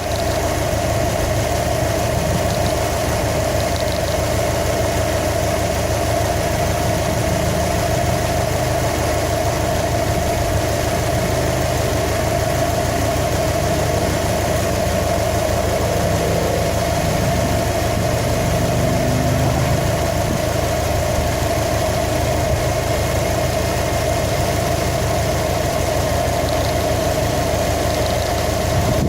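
2015 Subaru WRX STI's turbocharged 2.5-litre flat-four engine idling steadily with a steady whine over it, in an engine suspected of knocking.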